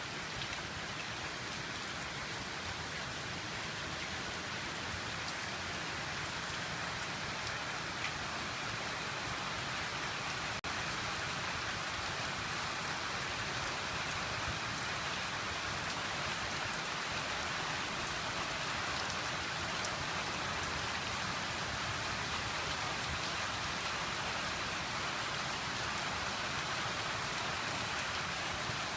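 Steady hiss and patter of falling water, like rain, with one brief click about ten seconds in.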